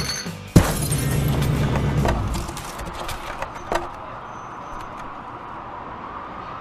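Cartoon soundtrack of music and sound effects: a sharp hit about half a second in, then scattered clicks and knocks, fading into a quieter stretch with a faint, slowly rising tone.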